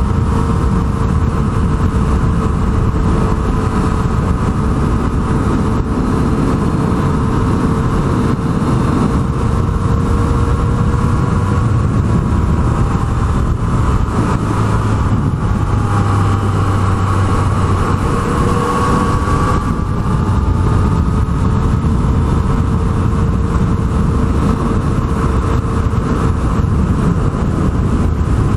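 Yamaha MT-09's three-cylinder engine running steadily while riding along, over a dense low rush of wind noise. Its pitch dips and shifts around the middle, then settles again.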